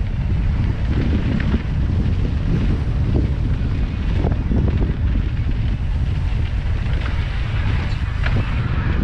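Wind buffeting the camera microphone during a mountain bike ride on a trail, a heavy steady rumble with scattered short knocks and rattles.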